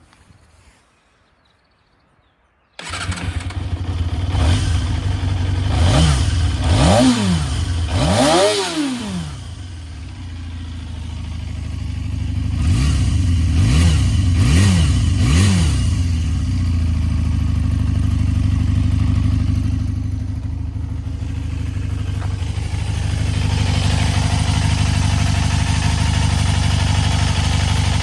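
Yamaha Zeal 250 cc inline-four motorcycle engine and exhaust. It starts about three seconds in and is revved twice in rising-and-falling blips. After a short settle it is blipped three more times in quick succession, then idles steadily.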